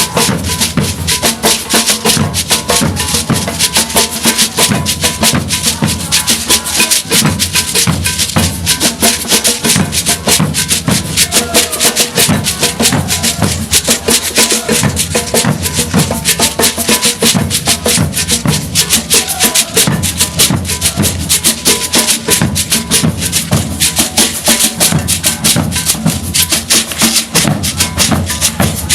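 Maracatu de baque virado percussion group playing a dense, driving rhythm: deep alfaia bass drums under crisp snare drums and shakers, continuing without a break.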